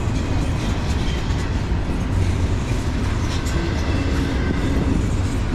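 Empty double-stack intermodal well cars of a freight train rolling past slowly, a steady rumble of steel wheels on the rails.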